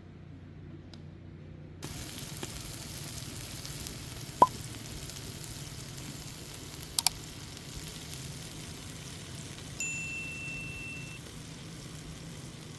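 Food sizzling as it fries in a pan, the sizzle starting suddenly about two seconds in, with a few sharp knocks and a short ringing tone near the end.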